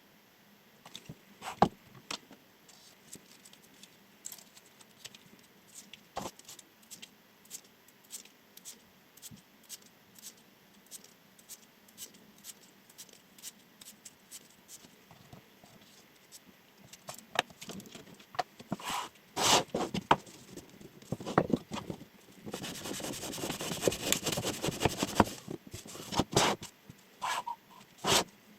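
Chef knife cutting: scattered sharp clicks and taps of the blade, then a busier run of louder cuts, with about three seconds of dense, continuous scraping about two thirds of the way through.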